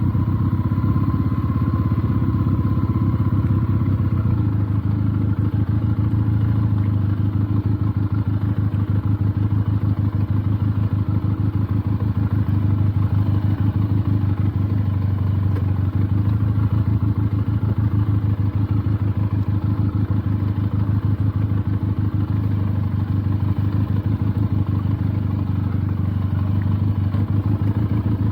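Benelli TnT 300's parallel-twin engine running steadily at low revs as the motorcycle is ridden slowly over a rough off-road track, its pitch holding even throughout.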